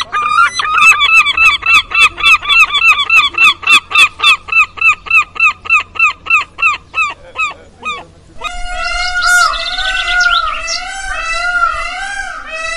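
A bird giving a long, fast series of repeated calls, about three or four a second, that fade over several seconds. After a short gap, a different recording of several birds chirping and calling over one another takes over.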